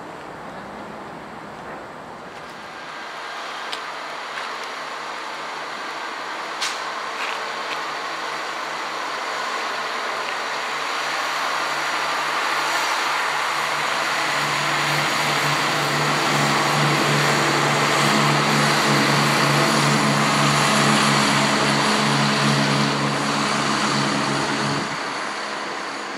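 A train drawing near, growing steadily louder for about twenty seconds, with a steady low hum that cuts off suddenly near the end.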